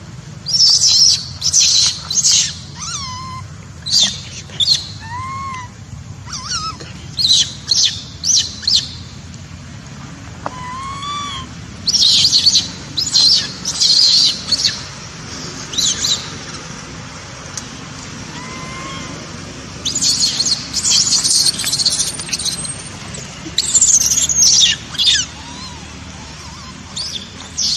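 Young monkey screeching in loud, shrill, high-pitched calls that come in clusters of several quick cries, with a few short, lower, arching calls in between.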